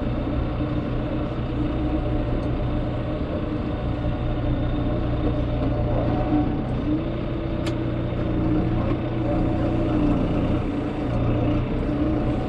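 A vehicle engine idling steadily, with one sharp click about eight seconds in.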